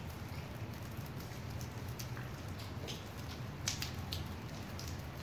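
Rain falling in a thunderstorm, with irregular sharp ticks of drops hitting a hard surface close by, over a steady background of rain noise.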